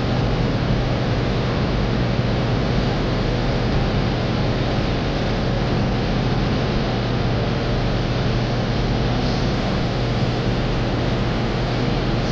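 Electric fan running on its highest speed setting (3): a loud, steady rush of air over a low, even motor hum.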